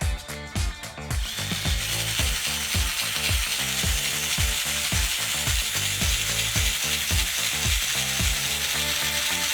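A power drill starts about a second in and runs steadily, spinning a 3D-printed spool to wind masonry line onto it.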